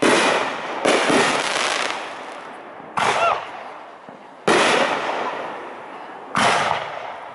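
Aerial firework shells bursting overhead: five loud reports spaced one to two seconds apart, each dying away in a long rolling echo.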